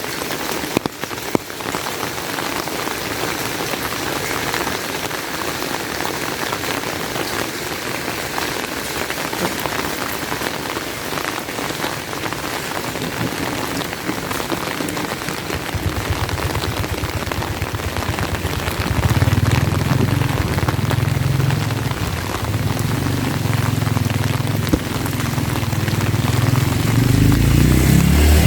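Steady heavy rain falling and pattering on surfaces. From about halfway in, a low engine drone rises underneath and grows louder toward the end as a vehicle approaches.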